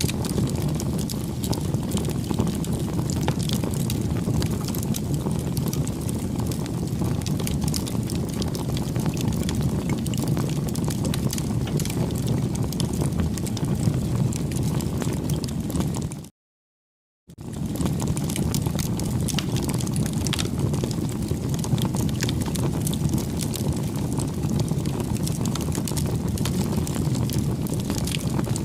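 Bonfire burning: a steady low rush of flames with constant fine crackling and popping. The sound drops out to silence for about a second roughly halfway through, then resumes.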